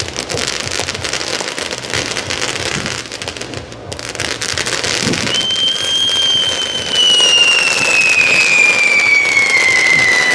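Fireworks crackling, a dense run of small pops. About halfway through a firework whistle starts and sounds steadily, its pitch sliding slowly downward.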